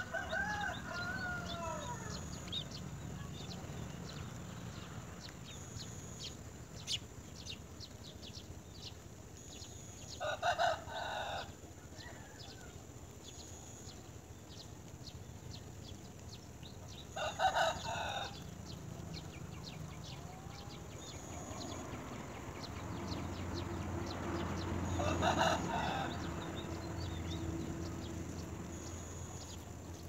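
Outdoor ambience with short bird calls, each about a second long: one with a bending pitch right at the start, then others about ten, seventeen and twenty-five seconds in. Faint rapid high ticking runs through the first half, and a low hum swells near the end.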